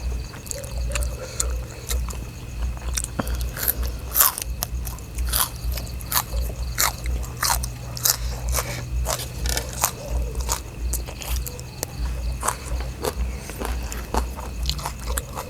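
Close-up chewing and biting of food, with irregular sharp crunches throughout.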